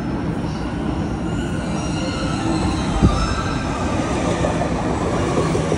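Train running on the rails, with a high squeal from the wheels and a single knock about three seconds in.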